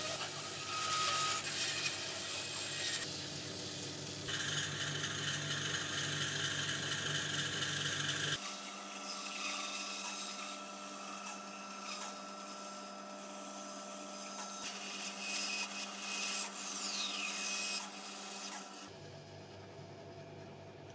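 Bandsaw running and cutting through a thick hardwood block, the blade rasping steadily through the wood over the hum of the machine. The sound shifts abruptly a few times and drops quieter near the end.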